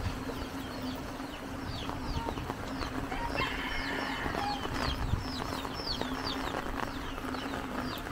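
Birds chirping again and again in short, falling notes, a few per second. A longer chicken call comes in about three and a half seconds in, over a steady low hum.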